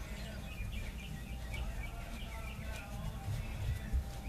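Birds chirping over and over in short rising and falling calls, over a steady low rumble.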